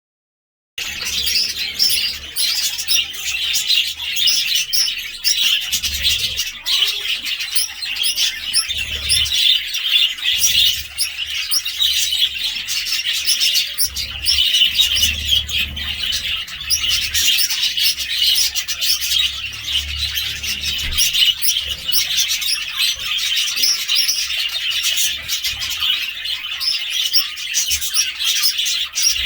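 Budgerigars chirping and warbling in a dense, continuous chatter, starting about a second in.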